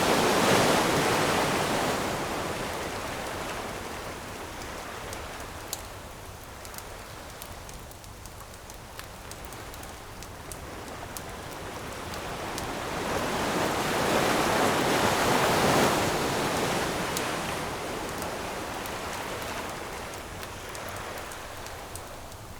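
Ocean waves breaking and washing up the shore, one surge right at the start and another building to a peak about fifteen seconds in, with the steady wash of surf between. Small sharp crackles and pops from a wood campfire are scattered throughout.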